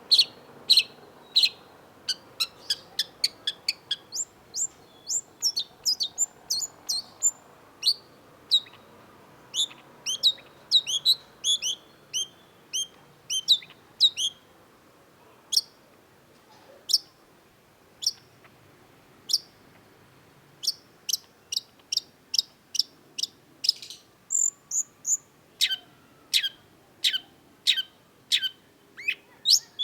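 Long-tailed shrike singing a fast, jerky string of short, sharp chirping notes that thins out for a few seconds midway, then speeds up again near the end, with a quick run of three higher notes just before.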